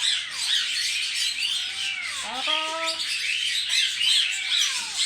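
Pet birds chirping rapidly and continuously, with one short held call about two and a half seconds in.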